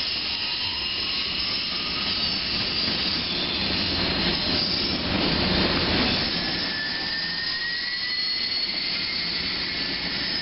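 Covered hopper cars of a CN freight train rolling past on steel rails: a steady rush of wheel and rail noise, swelling louder about halfway through, with faint thin squeals that drift slowly in pitch.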